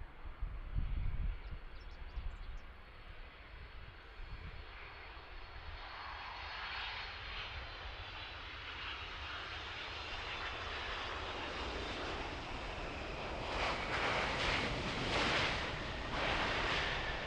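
Jet noise and a faint high whine from a Boeing 767-300ER's twin turbofan engines, growing steadily louder as the airliner draws nearer. Low wind rumble on the microphone is heard at the start.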